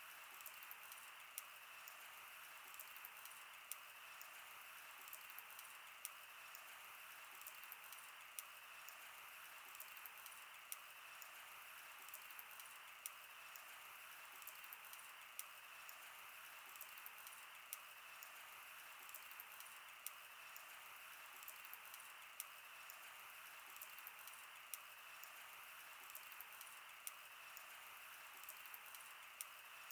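Wood campfire crackling: irregular sharp pops and snaps from the burning wood, several every couple of seconds, over a steady soft hiss.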